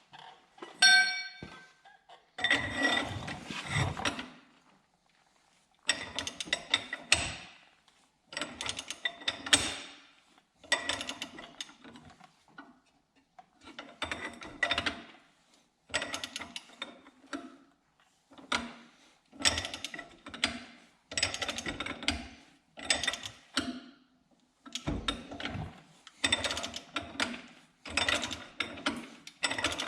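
Hand ratchet turning the forcing screw of a ball joint press in repeated strokes, a burst of clicking with each stroke, as a new ball joint is pressed into the steering knuckle. A single ringing metal clink about a second in.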